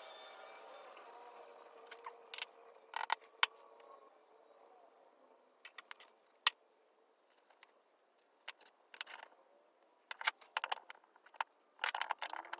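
A hum fades away over the first few seconds, then sharp clicks and taps of small hard objects being handled come in irregular clusters.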